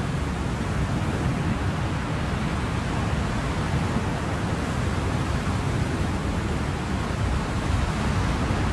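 Ocean surf: a steady, even wash of waves, heavy in the low end, with no distinct breaks.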